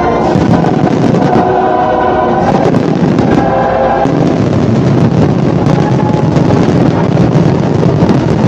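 Fireworks bursting in quick succession over loud show music, with a choir singing held notes. The music drops away after about four seconds, leaving the bursts over a dense rumble.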